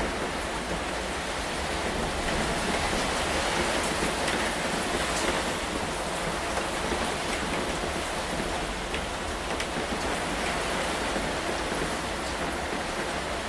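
Steady rain falling, an even hiss with scattered ticks of single drops, swelling slightly a few seconds in.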